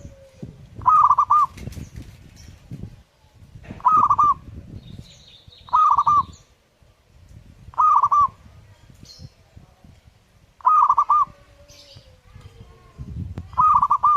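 Zebra dove cooing, six short phrases of a few quick rolling notes each, repeating about every two seconds. Faint chirps of other small birds sound between the phrases.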